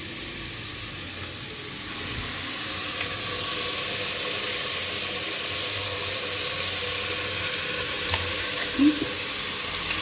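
Chicken and freshly added ground onion and red-chilli masala paste sizzling in hot oil as they fry, the sizzle growing louder about two seconds in. A couple of short knocks of the stirring spoon against the pot come near the end.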